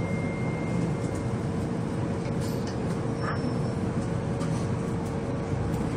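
Running noise inside an MTR Kwun Tong Line C-train moving through a station: a steady rumble with a constant hum. A thin high whine sounds for about the first second, and a fainter one briefly about three seconds in.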